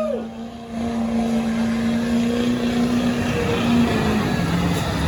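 A vehicle engine running at a steady note that fades out a little under four seconds in, giving way to rougher engine noise. A horn-like tone cuts off just as it begins.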